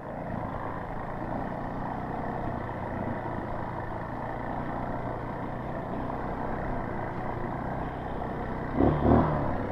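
Small trail motorcycle's engine running steadily while riding, briefly louder near the end.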